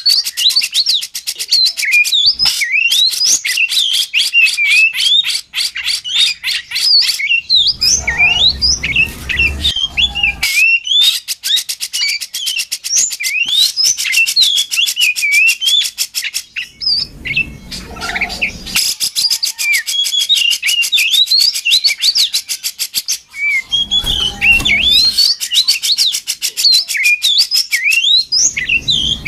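Oriental magpie-robin (kacer) singing continuously: a loud, varied run of quick whistled phrases, with a fast high ticking chatter running over the song much of the time. Brief low rumbles come in three or four times.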